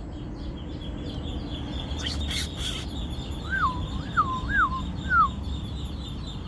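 A bird giving four clear whistled notes in a row, each sliding down in pitch, over a steady background of high-pitched chirping, with a brief hiss about two seconds in.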